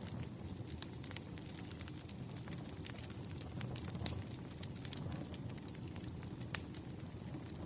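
Wood fire burning with a steady low rumble and scattered sharp crackles and pops of burning logs, one louder pop about six and a half seconds in.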